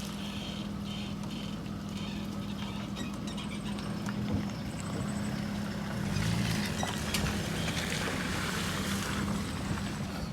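A vehicle engine running at a steady hum, with a louder rushing noise swelling up about six seconds in and easing off near the end.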